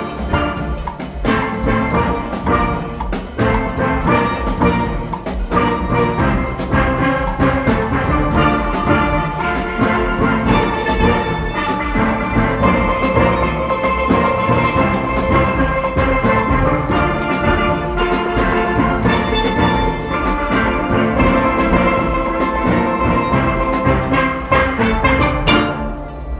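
Steel orchestra playing: many steelpans ringing out a fast, rhythmic tune over drums and percussion. The playing breaks off near the end.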